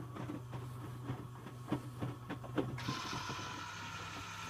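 Electrolux W455H commercial washing machine clicking and knocking over a low hum, then, about three seconds in, a sudden steady rush of water as it starts filling.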